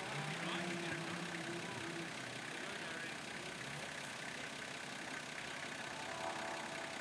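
Faint engine of an off-road competition 4WD running at low revs, its note rising briefly in the first two seconds.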